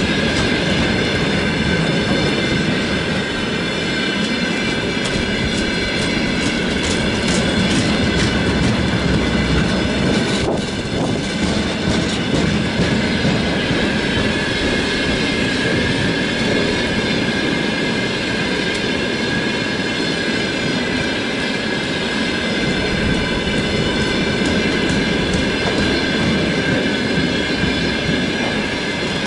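Freight train of tank cars rolling past: a steady rumble with wheels clicking over rail joints and a steady high-pitched wheel squeal.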